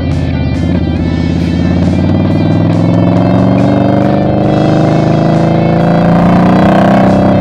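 Guitar-led background music over a motorcycle engine; the engine's pitch climbs steadily for several seconds as the bike accelerates.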